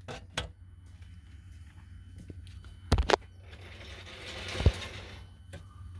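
A few sharp clicks and knocks from hands working at the car's battery connections, the loudest about three seconds in, with a soft rustle near the end; the engine is not turning over.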